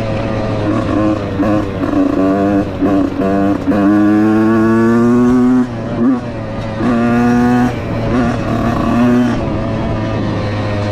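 Husqvarna dirt bike engine pulling on and off the throttle. Its pitch climbs in a string of short pulls, then in one longer rising pull that cuts off sharply about halfway through, and then in a shorter pull after it.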